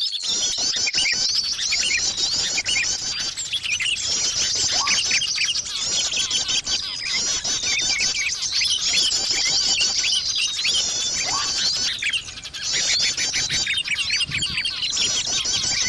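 Bird-lure recording of small birds chirping: dense, rapid high twittering and trills in short phrases that repeat every second or two, with a brief lull about twelve seconds in.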